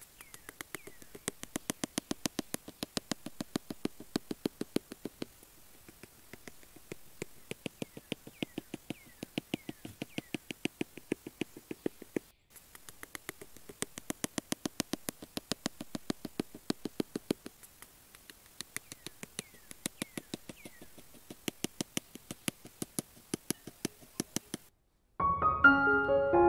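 A rapid run of light, sharp clicks or taps, about five a second, going on in stretches with short pauses. Near the end it cuts to piano music.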